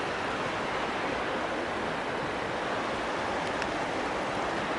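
Creek water rushing steadily over its bed.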